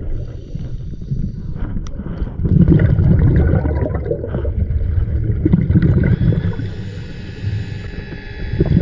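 Muffled underwater rumbling and gurgling, the sound of scuba bubbles and water moving around a submerged camera, swelling and fading in waves. A faint steady high whine joins about six seconds in.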